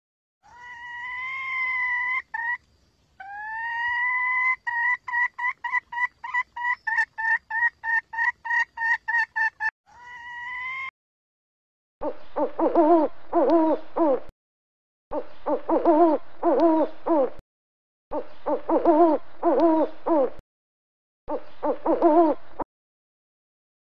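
Owl calls. First a whistled note that breaks off, then another that runs into a rapid trill of about seven pulses a second. After a short pause come four wavering calls of about two seconds each, spaced evenly.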